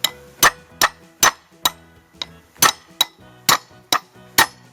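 Hammer blows driving a ball bearing into a motorcycle front wheel hub: about ten sharp metallic strikes, two or three a second, with a short pause partway through.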